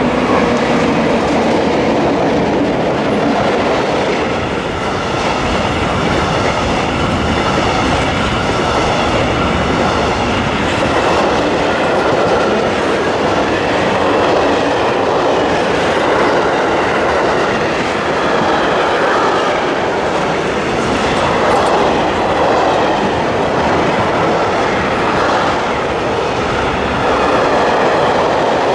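Freight train running through: a Siemens Eurosprinter electric locomotive goes by at the start, then a long line of freight wagons, tank wagons among them, rolls past steadily.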